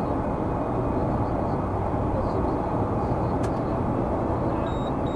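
Steady road and engine noise of a moving car, heard from inside the cabin. Near the end, short high electronic beeps start, typical of a speed-camera warning device.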